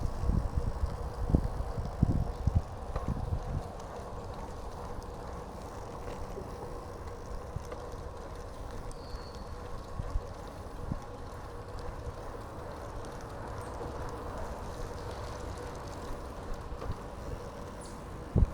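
Bicycle riding along a paved path: wind gusts on the microphone for the first few seconds, then a steady rolling hum from the tyres and drivetrain, with one short thump near the end.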